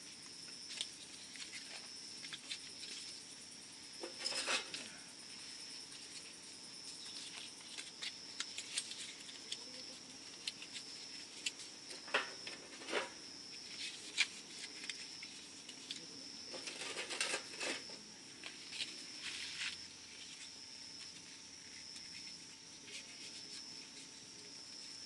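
Small wood fire crackling and popping as it catches from milk-carton fire starter, with a few louder rustling crackle clusters, under a steady high-pitched whine.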